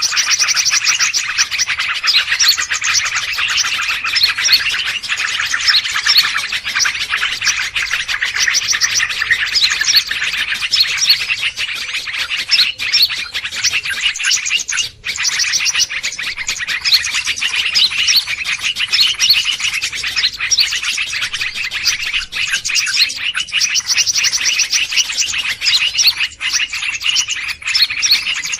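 Noisy chorus of many small birds chirping and twittering together, rapid high notes with no pause, with a brief drop about fifteen seconds in.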